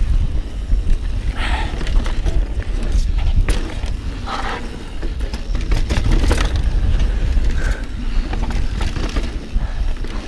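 Mountain bike riding a rough trail: steady wind rumble on the microphone and tyre noise, with frequent rattling clicks and knocks from the bike over rocks.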